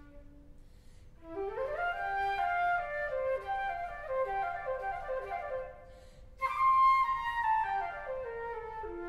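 Flute ensemble playing several parts together. After a brief pause, the parts enter with a rising run about a second in. A louder phrase begins just past the middle, its top line falling toward the end.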